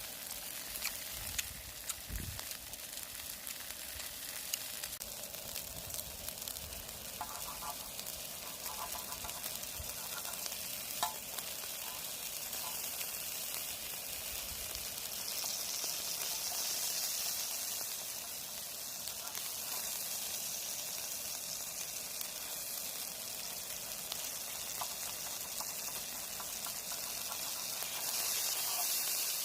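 Beef sirloin sizzling on a hot camping griddle: a steady frying hiss, a little louder for a couple of seconds midway and again near the end. A few sharp clicks come in the first couple of seconds and again around the middle.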